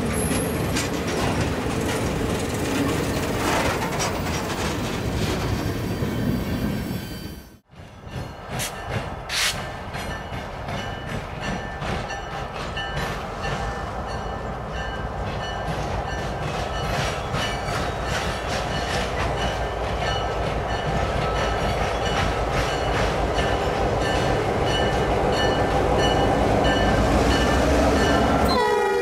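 Freight cars, a slag pot car and gondolas among them, rolling past, the wheels running over the rail. After a sudden cut about seven and a half seconds in, a Norfolk Southern diesel locomotive approaches with its engine running, growing steadily louder as it draws alongside.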